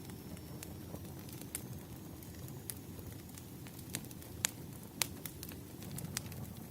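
Burning firewood crackling: irregular sharp pops over a low steady rumble. The loudest pops come about four and a half and five seconds in.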